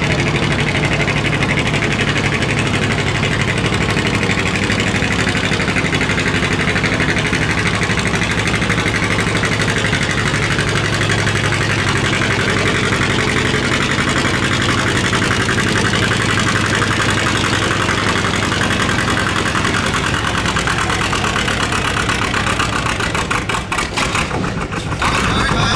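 A pulling vehicle's engine running loud and steady, dipping briefly near the end.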